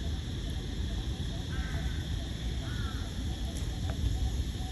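Outdoor park ambience: a steady low rumble under a constant high insect drone, with two short bird calls about one and a half and three seconds in.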